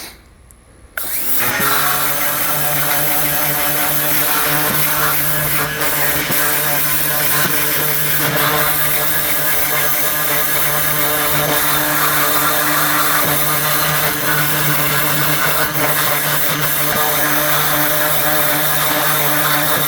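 Ryobi 1900 PSI electric pressure washer starting up about a second in and then running steadily. Its motor and pump hum under the hiss of the water jet spraying the grill grates.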